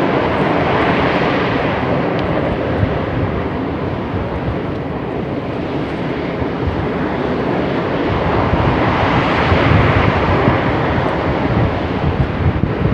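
Semeru volcano's crater venting ash continuously: a loud, steady rushing noise with a deep rumble, swelling once near the start and again about two-thirds of the way through.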